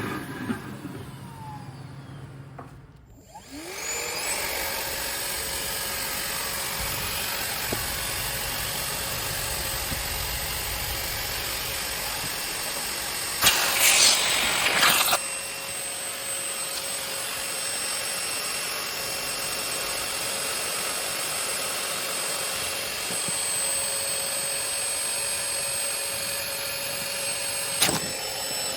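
Parkside PAWD 20-Li A1 20 V cordless wet/dry vacuum motor winding down at the start, then switched on again about three and a half seconds in. It spins up with a rising whine and runs steadily. A louder rushing burst of suction lasts about a second and a half near the middle, and a click comes near the end.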